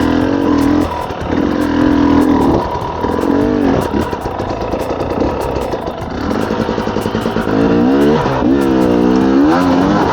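Dirt-bike engine revved in repeated short bursts of about a second each, its pitch rising and falling with the throttle. The longest, most wavering bursts come near the end.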